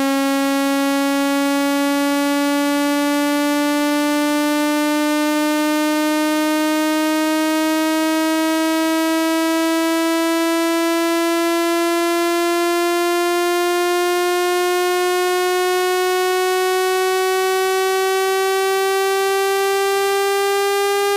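Electronic water-eject tone for clearing a wet phone speaker: one buzzy, rich-in-overtones tone at a steady level, its pitch rising slowly and evenly.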